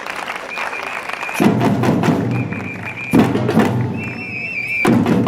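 Batucada samba drum group playing: heavy low drumming in repeated phrases of under two seconds each, with short trilled whistle blasts over the top.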